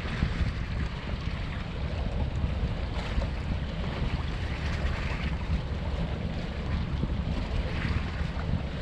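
Wind buffeting the microphone in an irregular low rumble, over a steady rush of wind and sea waves.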